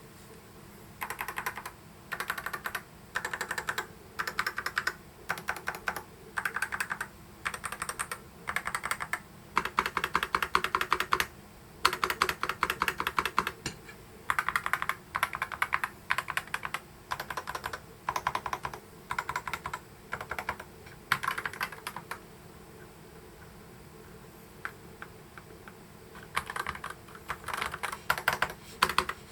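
Typing on an EPOMAKER HE75 Mag keyboard with Gateron Magnetic White switches: bursts of rapid keystrokes. Near the end it pauses for a few seconds, with only a few lone key presses, then the typing starts again.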